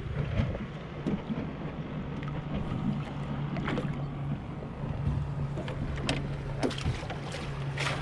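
Small fishing boat's motor running slow with a steady low hum, under wind and water noise, with scattered short knocks and clicks.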